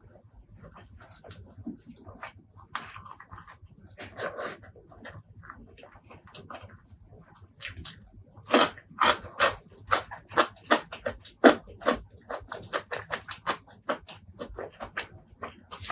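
Close-miked open-mouth chewing and lip smacking on spicy pork leg curry and rice. It is sparse and soft at first, then from about halfway through becomes a steady run of loud smacks, a few a second.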